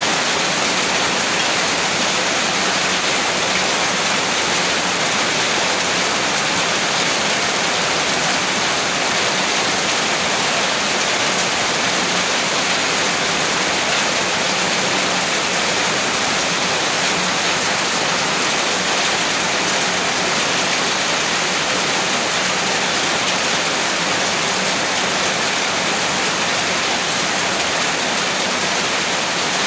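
Heavy rain pouring steadily, a dense even hiss of rainfall with no single drops or thunder standing out.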